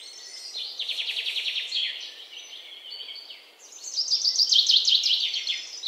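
Songbirds singing: rapid trilled phrases of high chirps, with a second, busier run of song starting about three and a half seconds in.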